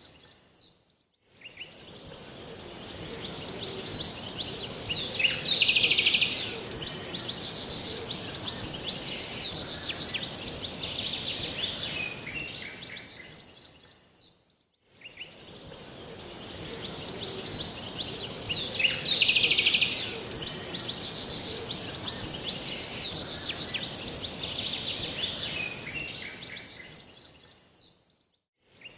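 Small birds chirping and singing over a steady high hiss, with one louder, bright call a few seconds after each fade-in. The same passage of about fourteen seconds plays twice, fading out and back in each time: a looped recording.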